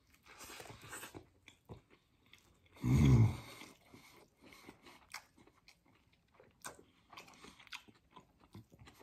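A man chewing a mouthful of breakfast burrito with his mouth closed: soft, wet smacks and small clicks scattered through. About three seconds in comes one short, low throat sound, the loudest thing heard.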